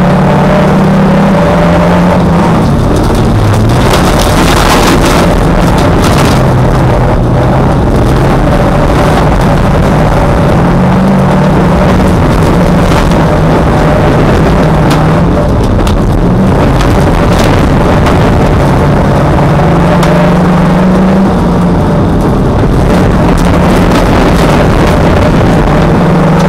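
Dirt-track race car's engine heard from inside the cabin, running hard with its pitch rising and falling repeatedly as it accelerates and shifts around the track, with occasional knocks.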